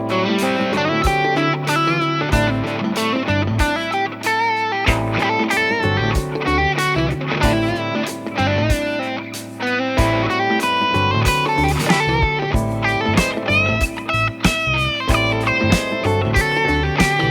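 Ibanez ICHI10 electric guitar being played: a melodic line of picked notes and chords, some notes held with a wavering vibrato, with frequent sharp percussive plucks.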